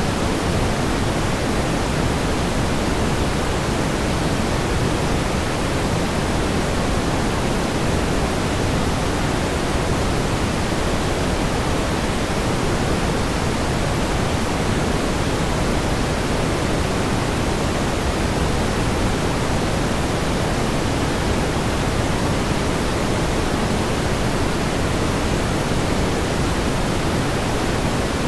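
Steady synthetic pink noise: an even, unchanging hiss weighted toward the low end.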